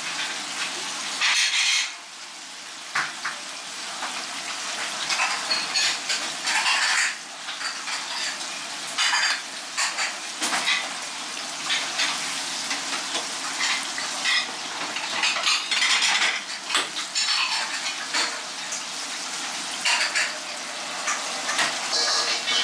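Fried rice frying in a wok: egg and rice sizzling steadily, with short metallic clinks every second or two from a ladle and small metal bowls as seasonings are added.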